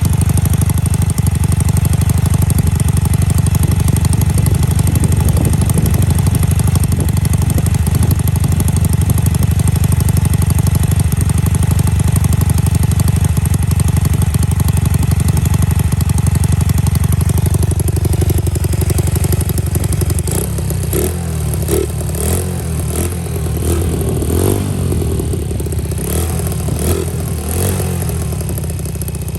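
Honda Monkey R's small four-stroke single-cylinder engine running steadily through a Yoshimura exhaust. About two-thirds of the way through it is given several short throttle blips, each rev rising and falling.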